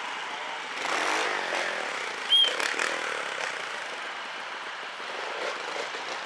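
Trial motorcycle engine revving, swelling about a second in, with a short high squeak about two seconds in that is the loudest moment.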